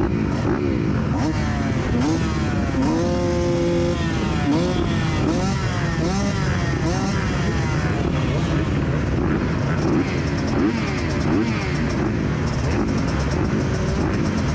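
Motocross bike engines revving up and down over and over, the pitch rising and falling in quick overlapping sweeps over a loud, rough low rumble, with revs held steady for about a second near the start.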